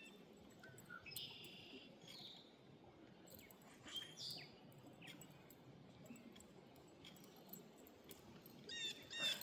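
Birds calling faintly: scattered short chirps and whistled glides, with a louder quick run of chirps near the end.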